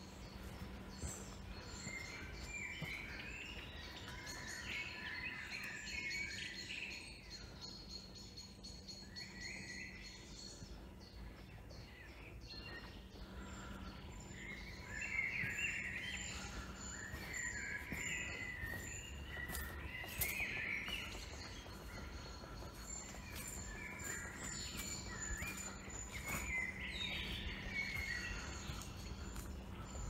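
Woodland songbirds singing in short, repeated phrases, with a steady, thin, high-pitched tone running underneath.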